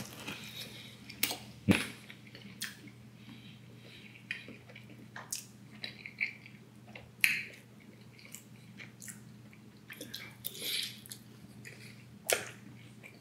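A man biting into and chewing a pepperoni pan pizza up close: irregular short mouth clicks and smacks, over a faint steady low hum.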